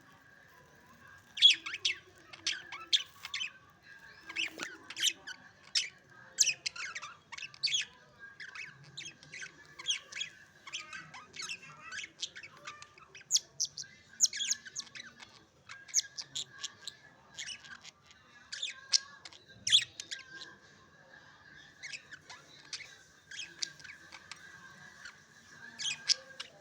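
Pet budgerigars chirping and squawking, short sharp calls in quick clusters, again and again.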